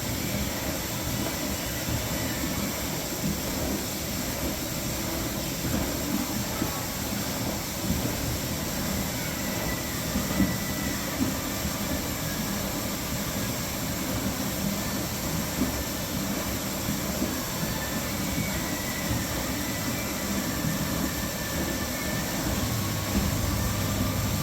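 Electrolux WH620CV professional washer-extractor in its rinse stage, giving a steady rushing noise. A low steady hum sets in near the end.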